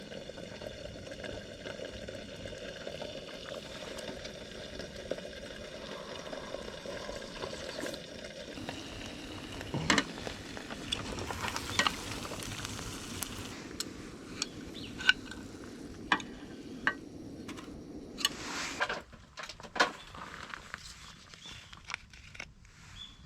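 Food sizzling in a hot pan, a steady hiss with a string of sharp clicks and knocks from about ten seconds in, dying down near the end.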